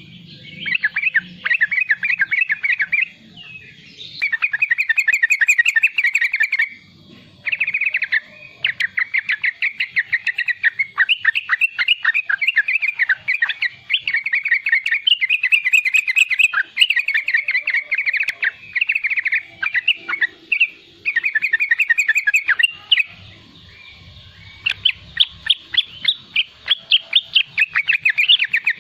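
Young yellow-vented bulbul (trucukan) giving its 'riwik' chatter: rapid trilled runs of high notes, each a second to a few seconds long, separated by brief pauses.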